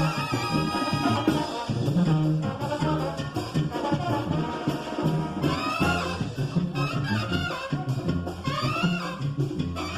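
Mexican banda brass music: trumpets and trombones playing over a pulsing low bass line.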